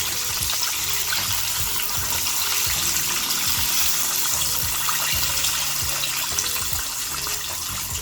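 Hot oil sizzling steadily around battered chicken drumsticks deep-frying, with a fine crackle through it.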